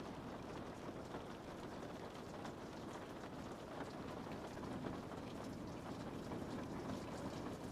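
Rain falling on a window: a steady hiss with many small, quick taps of drops hitting the glass.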